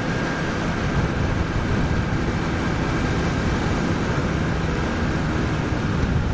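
Kawasaki ZX-6R 636 inline-four motorcycle engine running steadily, heard from the rider's position under a steady rush of wind noise.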